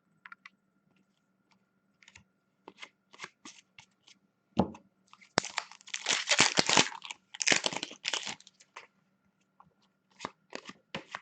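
Pack of Upper Deck hockey cards being torn open: the wrapper crackles and crinkles for a few seconds mid-way, with light ticks and snaps of cards being handled before and after.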